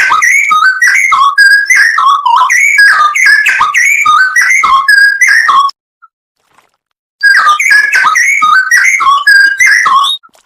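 Straw-headed bulbul (cucak rowo) singing loud, rapid phrases of rich, bubbling whistled notes that jump up and down in pitch. The song breaks off for about a second and a half midway, resumes, and stops near the end.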